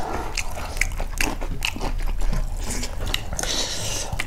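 Chewing and crunching food, with many short, irregular crisp clicks.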